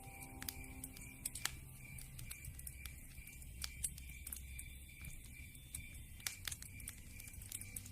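Burning logs crackling, with irregular sharp pops, a few of them louder than the rest.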